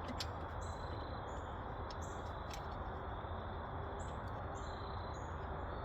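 Quiet outdoor background with a steady low hum and short high bird chirps scattered through it.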